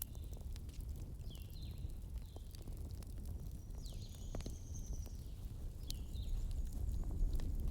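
Wood fire in a fireplace crackling over a low steady rumble, with a few short high chirps that fall in pitch, one longer and higher about four seconds in.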